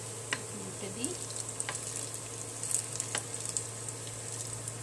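Banana fritters deep-frying in hot oil, sizzling steadily with fine crackling. A few sharp clicks as a spatula turns them in the pan.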